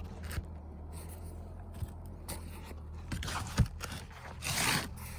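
Wooden beehive parts being handled during an inspection: scattered light knocks and two longer scrapes, about three and four and a half seconds in.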